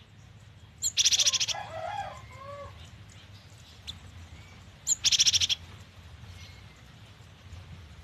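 Gelatik batu (cinereous tit) calling: two loud bursts of rapid, evenly repeated high notes about four seconds apart, each opened by a short sharp note, with softer lower warbling after the first burst.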